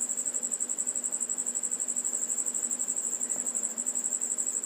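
A cricket trilling without a break: one high, rapidly pulsing note of about a dozen pulses a second.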